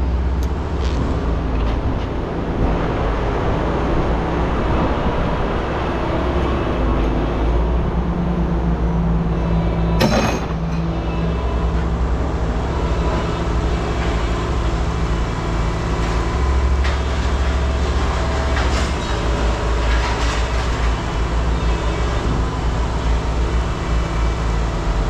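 Steady, loud low engine rumble of heavy running machinery, with one sharp knock about ten seconds in.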